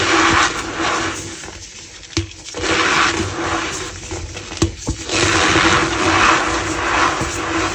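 Soft gym chalk being crushed, giving a squeaky crunch like stepping on snow. The crunching comes in three long swells, with a few sharp snaps in between.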